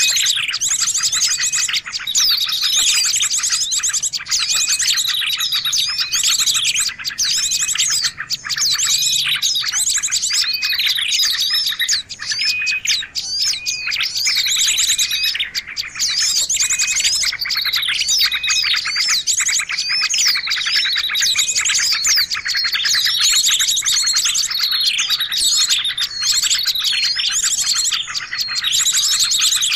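Dense, unbroken chirping and rapid trilling of several small songbirds calling over one another: a bird-trapping lure call meant to draw small wild birds in.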